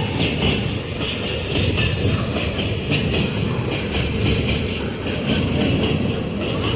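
Freight train wagons rolling past, with a steady rumble, wheels clacking over rail joints and a high wheel-on-rail ringing.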